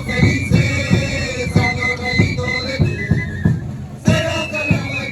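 Religious dance band music: drums beating about two strokes a second under a high melody of held notes stepping up and down.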